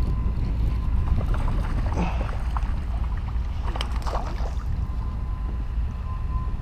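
Wind buffeting the microphone of a head-mounted GoPro, a steady low rumble, with a few faint scattered clicks.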